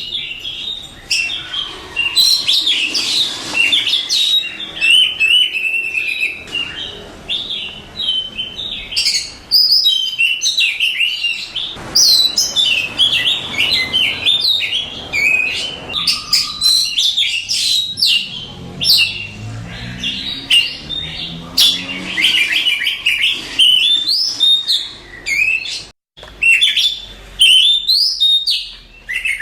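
Oriental magpie-robin (kacer) singing a rapid, unbroken, varied song of high chirps, whistles and trills, cut off for an instant near the end.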